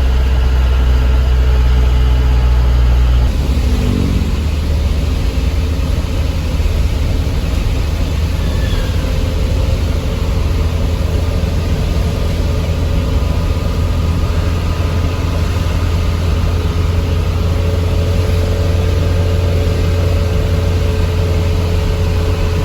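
Truck engine running steadily while driving. About three seconds in the low drone drops and the engine note shifts, then carries on evenly.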